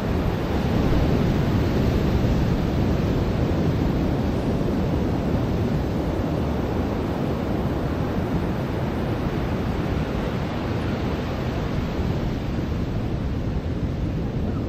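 Ocean surf washing onto a beach: a steady rushing noise that swells slightly about a second in, with a low rumble of wind on the microphone.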